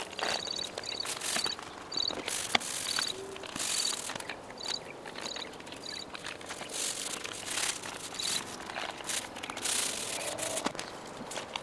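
A small paint roller worked back and forth over the metal, making repeated rasping strokes about once a second. Short high double chirps come through the first half.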